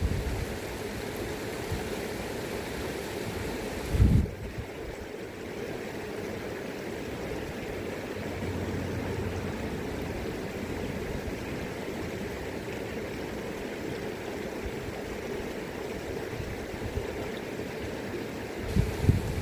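River current rushing steadily. Brief low rumbles of wind on the microphone cut in about four seconds in and again near the end.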